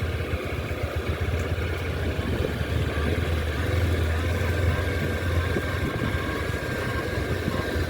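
Honda CB200X's 184 cc air-cooled single-cylinder four-stroke engine running steadily at a low, even pace while the motorcycle is ridden over a rough, wet road.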